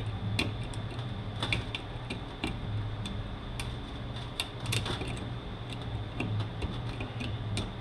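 Scattered light metallic clicks and taps of hand tools and parts on automatic transmission internals, over a steady low hum.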